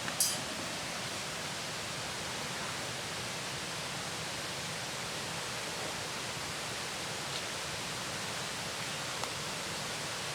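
Steady hiss of rain falling, with one short sharp crackle just after the start and a couple of faint ticks later.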